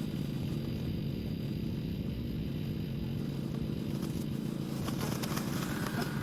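Mammotion Luba 2 robotic lawn mower running steadily as it cuts thick, overgrown grass: an even, low motor-and-blade hum with no let-up.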